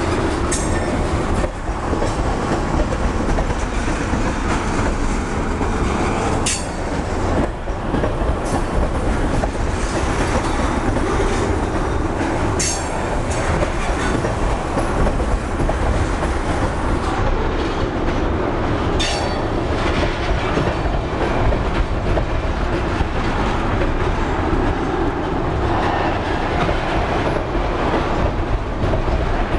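Tank cars of an oil train rolling past close by: steel wheels rumbling steadily on the rails with a clickety-clack over the joints, and a few short, sharp high clicks or squeals from the wheels scattered through.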